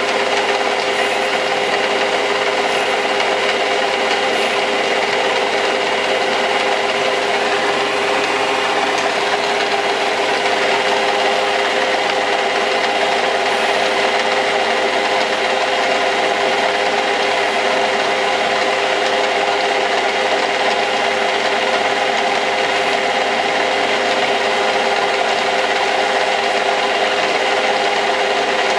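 Metal lathe running steadily under its automatic feed while the tool cuts the workpiece: a constant motor and gear hum with a few steady tones over the rasp of the cut.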